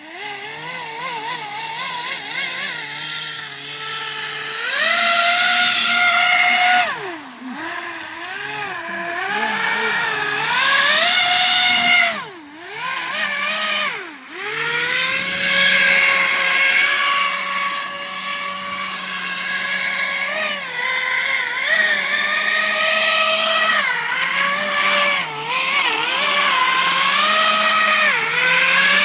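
The RC airboat's brushless electric motor spins a three-bladed air propeller, making a whine that rises and falls in pitch with the throttle. The throttle backs off sharply about a quarter of the way in and twice near the middle, then holds fairly steady.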